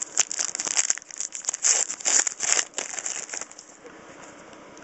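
Foil wrapper of a trading card pack crinkling and tearing as it is opened by hand, in quick rustling strokes that stop about three and a half seconds in.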